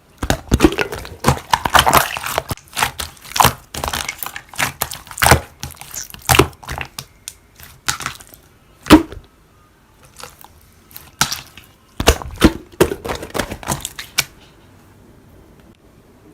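Slime being squeezed, pressed and stretched by hand, making an irregular run of sharp pops, clicks and crackles that thins out and stops about two seconds before the end.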